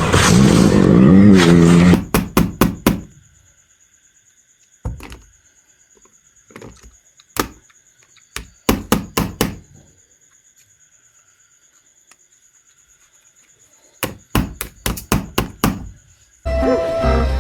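Hard knocks and clacks from toy animal figures being handled and set down, in quick runs of four or five with quiet pauses between. Background music plays at the start and comes back near the end.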